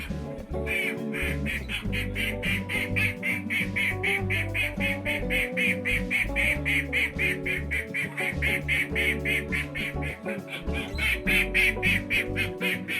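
Recorded ducks quacking in a fast, even run of about six short calls a second, played over background music.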